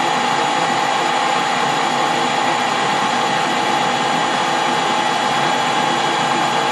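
Metal lathe running steadily, a constant machine hum with a steady whine from its motor and gearing.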